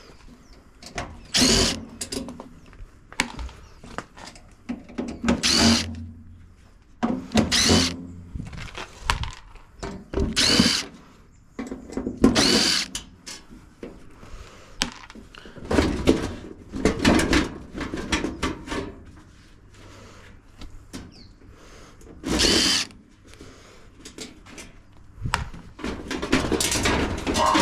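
Power drill-driver backing screws out of a dishwasher's steel cabinet. It runs in about ten short whining bursts with pauses between them.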